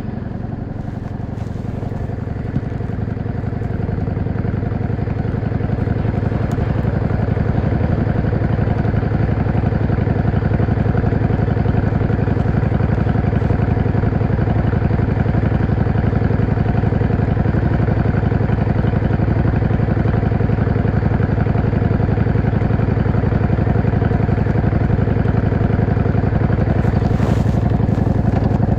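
Yamaha XVS 650 V-Star's air-cooled V-twin engine running under way. It grows louder over the first few seconds, then holds at a steady cruise.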